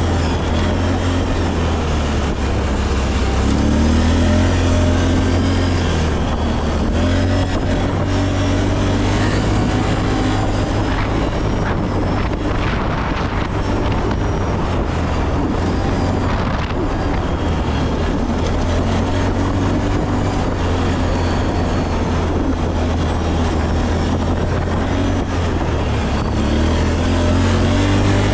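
Small off-road vehicle engine running steadily while riding, its revs rising and falling several times, over a constant low rumble.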